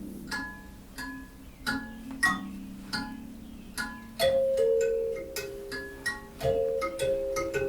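A tuned, struck percussion instrument played in a slow, gentle melody for a sound-healing session, each note ringing on under the next. The notes come about one or two a second and grow louder about halfway through.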